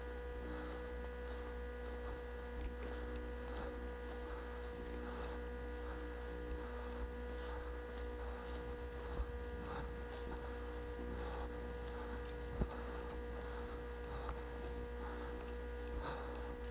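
Steady electrical hum, one strong tone with several fainter ones above it, and a few faint ticks and two brief clicks scattered through it.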